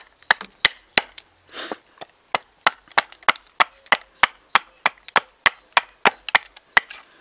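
Axe chopping into a blank of seasoned alder wood in quick, regular strokes, about three a second. The dry, seasoned wood is hard and unforgiving, so each blow has to be struck hard.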